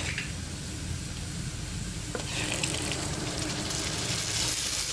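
Sliced onions sizzling in hot oil in a karahi. About two seconds in the sizzle turns louder and hissier as tomato and green chilli paste is poured from a blender jar into the hot oil.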